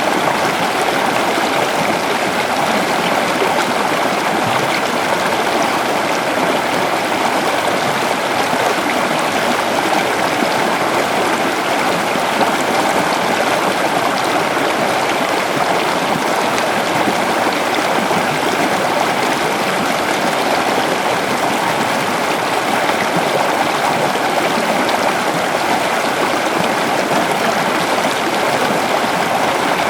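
River water flowing steadily over rocks, a constant rushing and babbling with no let-up.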